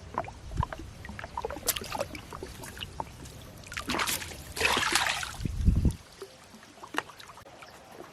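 A gill net being hauled in and a fish worked free of it in a small boat: water trickling and splashing, scattered knocks and clicks, a louder splash about halfway through and a low thump just before six seconds in. A low rumble drops away after the thump.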